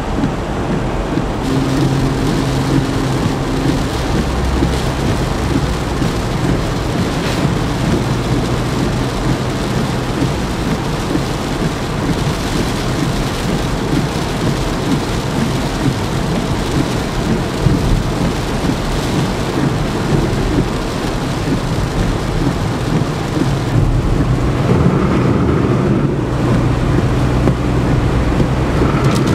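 Heavy rain pouring down steadily in a thunderstorm, loud and even, with a low rumble underneath.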